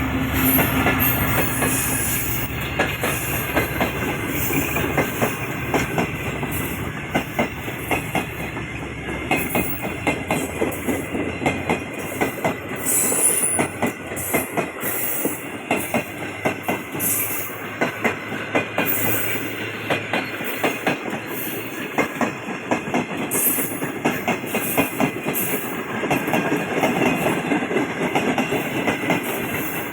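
Shalimar Express passenger coaches rolling past at speed, the wheels clacking over rail joints in quick repeated groups over a steady rolling rumble.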